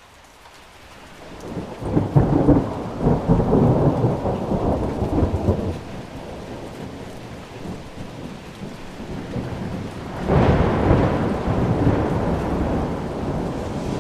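Thunderstorm: steady rain with two rolls of thunder. The first builds over the first couple of seconds and rumbles for about four seconds; the second breaks more sharply just after the ten-second mark and then fades slowly.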